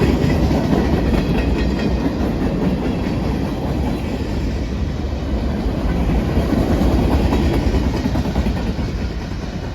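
Freight cars of a long CSX mixed freight train rolling past at close range, with a steady rumble of steel wheels on the rails.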